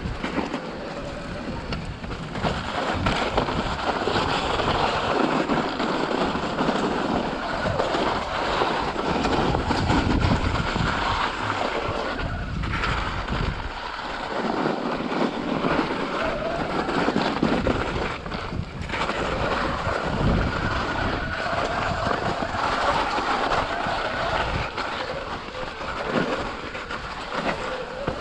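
Wind buffeting the microphone while riding a mountain bike on a trail, with rolling tyre noise and frequent knocks and rattles from the bike over rough ground.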